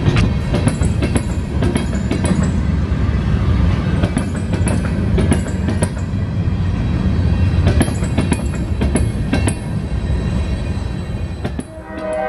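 Empty covered hopper cars of a freight train rolling past: a steady low rumble, with wheels clicking over rail joints and brief high squeals. It cuts off suddenly near the end.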